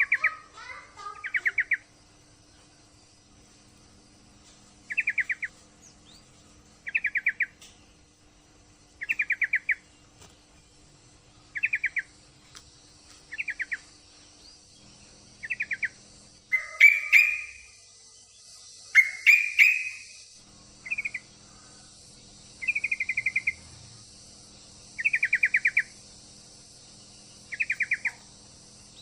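Yellow-vented bulbul (trucukan) calling: short bursts of rapid chattering notes repeated about every two seconds, with two louder, fuller calls midway. It is given as a female in breeding condition calling for a male.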